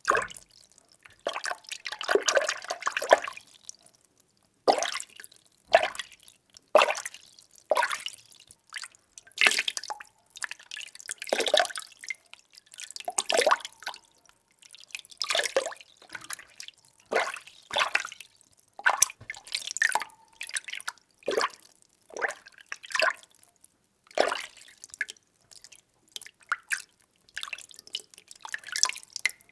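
Water being stirred, sloshing in short swishes at roughly one a second, with brief pauses between some strokes.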